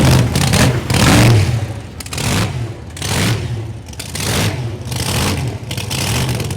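A car engine revving in repeated swells, rising and falling roughly once a second.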